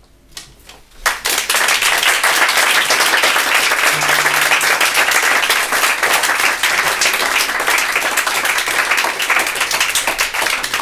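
Audience applauding at the end of a song: the clapping breaks out sharply about a second in, holds steady and loud, and starts to thin out near the end.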